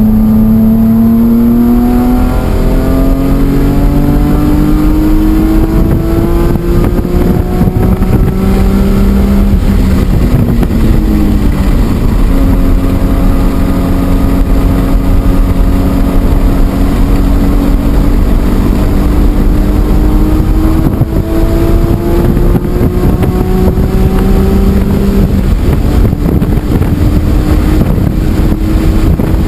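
BMW E46 M3's inline-six engine under hard acceleration on track, its pitch climbing through the gears with an upshift about two seconds in. About ten seconds in, the revs fall sharply for braking and a downshift. The engine then pulls steadily for a long stretch, dips again near the end and climbs once more, over loud wind and tyre noise.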